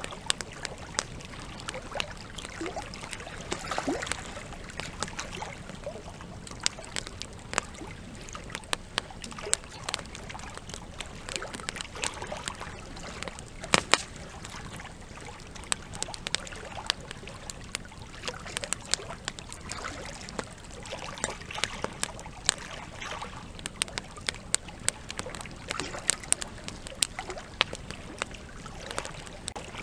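Campfire crackling with frequent sharp pops, over a steady rush of flowing river water; one pop about fourteen seconds in stands out as the loudest.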